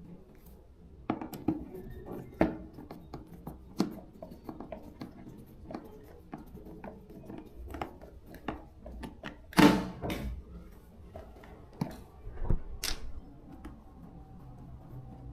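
Irregular clicks, taps and knocks of hand work with tools and parts, with one louder scraping burst about ten seconds in.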